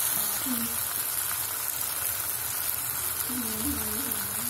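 Onion-tomato masala frying in a steel karahi with a steady sizzle.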